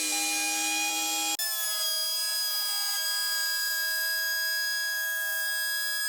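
A power tool's motor running steadily with a high whine. It breaks off abruptly about a second and a half in and resumes at a slightly different pitch.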